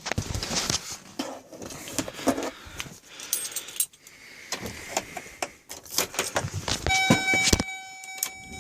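Keys jangling among scattered clicks and knocks as the GMC 6500 is readied to start. About seven seconds in, a steady dashboard warning buzzer comes on, typical of the ignition being switched on before cranking.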